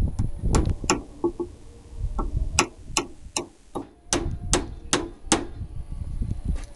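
Hammer driving nails into the wooden boards of a top bar beehive box. A few scattered blows come first, then an even run of strikes at about two and a half a second.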